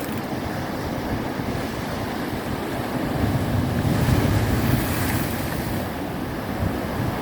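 Ocean waves surging and washing in, with a brighter hiss of breaking water about five seconds in, and wind buffeting the microphone.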